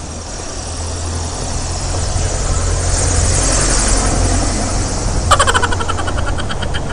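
Plastic toy tractor and trailer pushed by hand over rough ground, its wheels giving a fast, steady whirring rattle that swells in the middle, with a short pulsing buzz about five seconds in.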